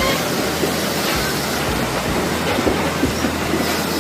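Heavy truck engine running with a steady rumble, under a continuous rushing noise.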